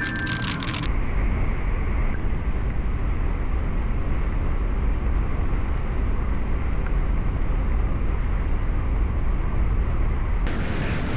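Steady low rumble of a moving vehicle, with even road and engine noise and no distinct events.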